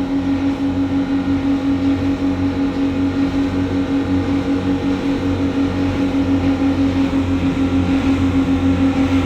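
Twin Suzuki 350 hp four-stroke outboards with Duoprop drives running steadily at speed, a constant drone with a low pulsing tone.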